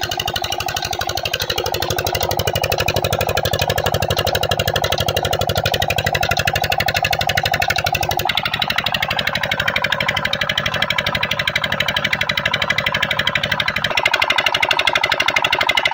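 Diesel engine driving a tubewell water pump, running steadily with a fast, even beat; its tone shifts about eight seconds in and again near fourteen seconds.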